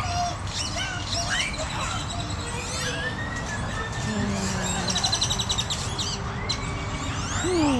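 Several birds chirping and calling, with a quick rattling series of notes about five seconds in and a few falling calls near the end.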